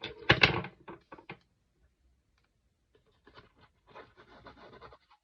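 Card stock and paper being handled and rubbed on a craft desk: a few sharp rustles and taps in the first second and a half, then quieter scattered rustling.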